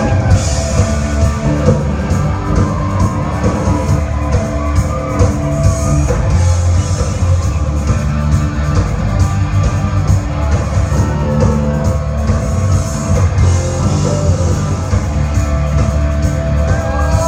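Live rock music: a band with guitar and drums playing with a steady beat.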